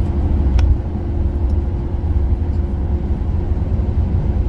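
Steady low rumble of a van driving on the road, engine and tyre noise heard from inside the cabin, with a faint steady hum. A single short click comes under a second in.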